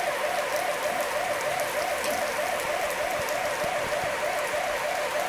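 Thunderstorm rain falling steadily, an even hiss of rain on the paving, road and hedges. Underneath it runs a warbling tone that wavers a few times a second.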